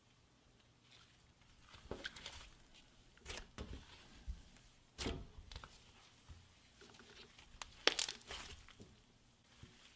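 Scattered crinkling, rustling and small knocks of hands handling craft materials, with the sharpest and loudest knock about eight seconds in.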